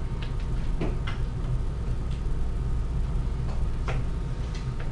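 A few faint, irregular light clicks and ticks over a steady low hum.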